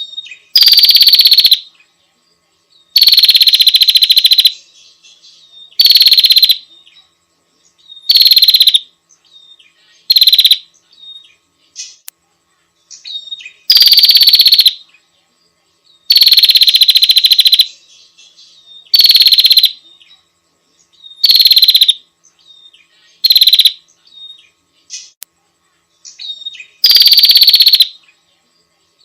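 Female prinia (prenjak) giving loud, buzzy rattling calls, each about a second long, repeated about a dozen times at uneven intervals, with faint short chirps between them.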